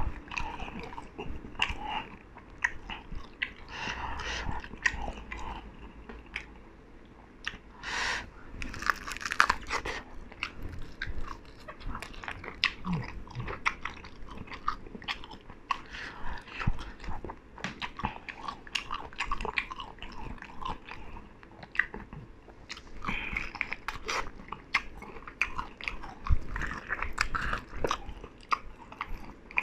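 A person biting and chewing sauce-coated fried chicken with the mouth full, pulling meat off the bone by hand, with many small clicks and smacks.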